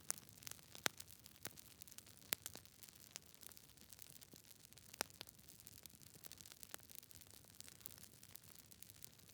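Campfire crackling: sharp, irregular pops and snaps, the loudest about a second in, a little past two seconds and about five seconds in, over a faint low rumble of the burning fire.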